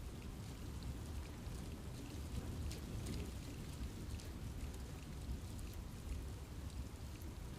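Steady rain falling in a forest, with many separate drops pattering on leaves over a constant low rumble of the downpour.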